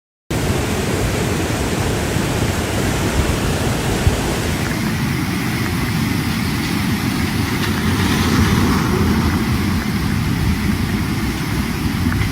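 A loud, steady rumbling noise with no distinct events, heaviest in the low end, starting abruptly about a third of a second in.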